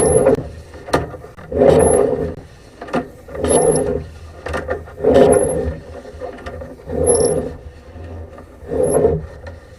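Sewer camera push cable being fed into the drain line in regular strokes, a scraping rub about every two seconds, each stroke starting with a brief high squeak.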